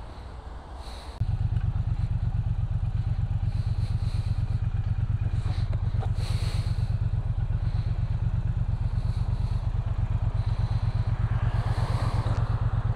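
Motorcycle engine idling with an even, rapid low pulse. It comes in loud and sudden about a second in and then holds steady.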